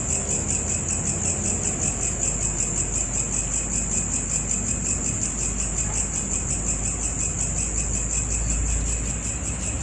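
Insects trilling steadily in a high, rapidly pulsing chirr, over a low rumble.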